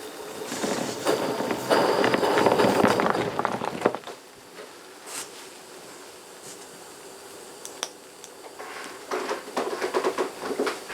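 Live-steam locomotive 4633 working: a loud rush of steam exhaust and hiss for about three seconds, then a quieter spell, then a run of quick sharp exhaust beats near the end.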